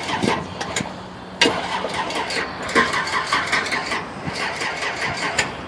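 1964 Chevrolet Impala's cammed V8 idling through its exhaust with an uneven, loping beat. It picks up sharply about a second and a half in.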